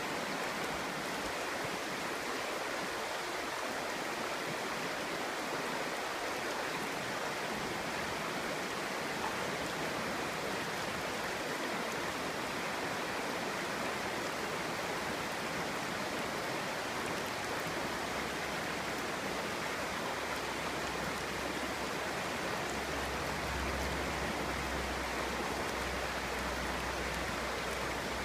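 Clear stream water flowing and babbling over stones, a steady, even rush.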